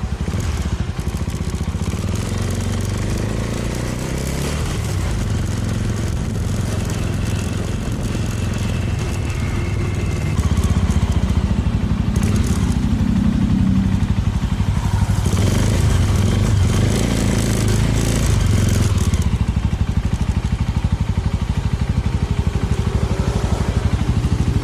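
Small motorcycle's engine running while under way, a steady low pulsing that gets louder about ten seconds in.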